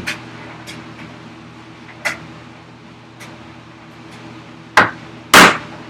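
Wood chisel being struck with a hammer while chopping across the grain of a wooden vise chop: several sharp knocks at uneven intervals, the loudest about half a second before the end, over a steady low hum.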